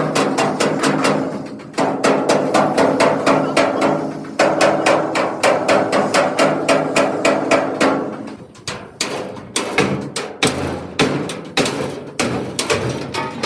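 Hammer beating the sheet-metal body of a truck, about five ringing strikes a second, slowing to scattered blows about two-thirds of the way through.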